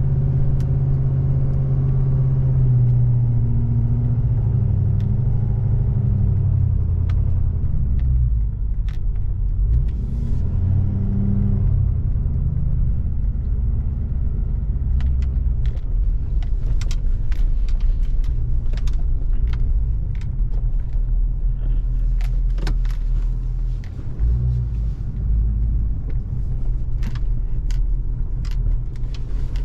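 A vehicle engine running while driving. Its pitch rises and falls over the first dozen seconds, as in accelerating and shifting, then it settles into a steady low rumble with scattered short clicks and rattles.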